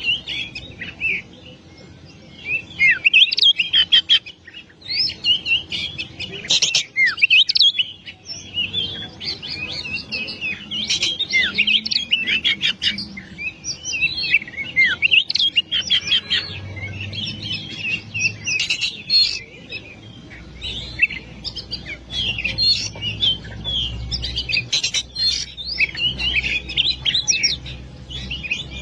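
Oriental magpie-robin (kacer) in full, continuous song: a long varied run of loud whistles, trills and quick chirps. A faint low hum sits underneath from about two-thirds of the way in.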